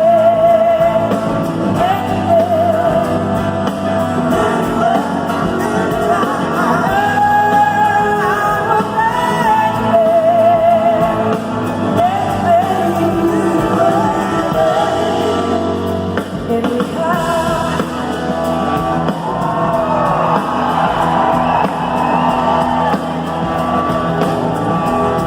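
Live blues-rock band playing, led by a melody line with wide vibrato that slides between notes over the full band.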